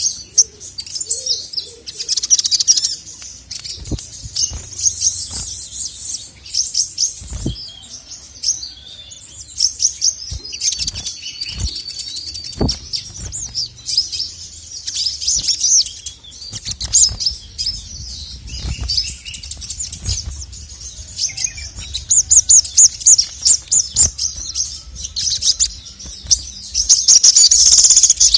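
Male crimson sunbird (sogok ontong) singing in fast runs of high, sharp chirps and trills, broken by short pauses and building to a long, loud rapid run near the end.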